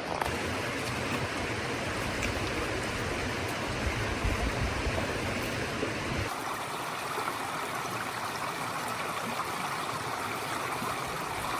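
Steady rushing of water in heavy rain, a continuous even hiss. About six seconds in it changes abruptly, losing its low rumble.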